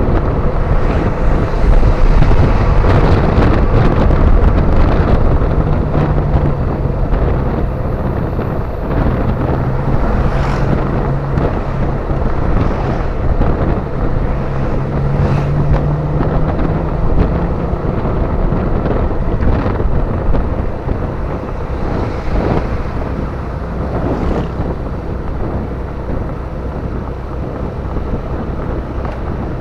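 Motorcycle riding on the road with heavy wind buffeting the microphone; a steady low engine note holds through the middle.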